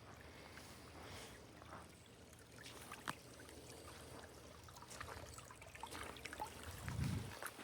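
Faint trickling of a small woodland stream, with scattered light ticks and a short low thump about seven seconds in.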